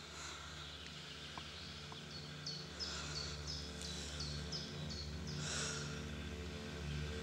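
A bird repeating a short, high chirp about three times a second for a few seconds, over a low steady drone. A brief rustle about five and a half seconds in.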